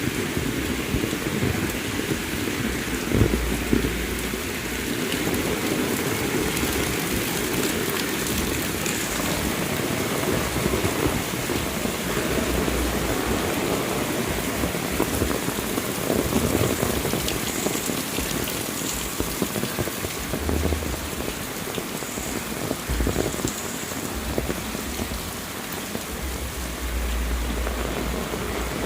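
Heavy rain falling steadily, with a few short low rumbles along the way.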